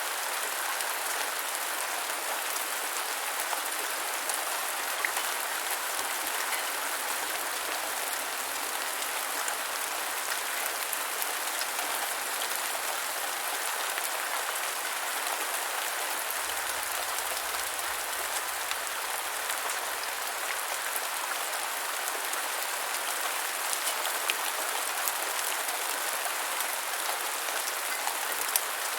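Steady rain falling on the ground: an even hiss of many drops, with a few slightly louder single drop hits scattered through it.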